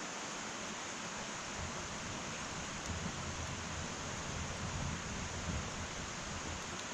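Wood fire burning in an irori hearth: a steady hiss of flames with a low fluttering rumble that swells from about a second and a half in.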